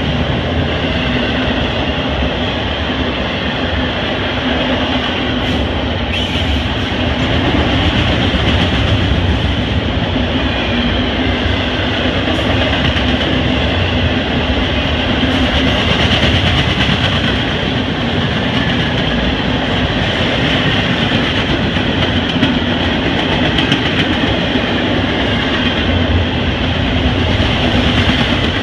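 CSX double-stack container freight cars rolling past close by, a loud steady noise of steel wheels on the rails that holds throughout.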